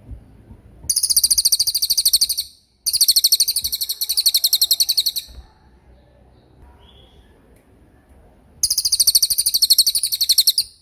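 A small songbird giving three fast, very high rolled trills, each about two seconds long, made of rapidly repeated notes.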